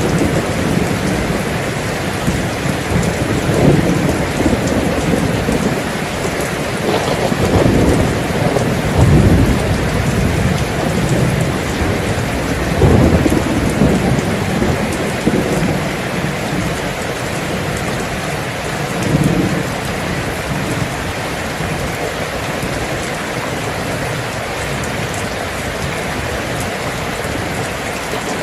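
Steady heavy rain, with low rolling thunder rumbling several times in the first two-thirds, then the rain alone.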